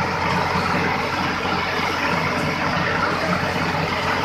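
Diesel tractor engines running steadily and hard under heavy pulling load, a continuous engine noise with no clear changes.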